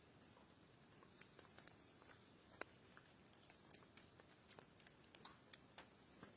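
Faint, irregular small clicks and ticks over a quiet background, with one sharper click a little over two and a half seconds in.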